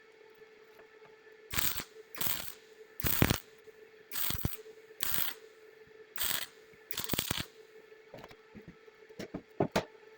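A metal mechanism or hand tool worked in seven rasping strokes, about one every 0.8 seconds, followed near the end by a few short sharp clicks. A faint steady hum runs underneath.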